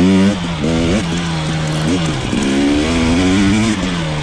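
KTM 300 XC two-stroke dirt bike engine revving up and down with the throttle while riding. Its pitch rises and falls several times, stays high for about a second and a half in the middle, then drops near the end.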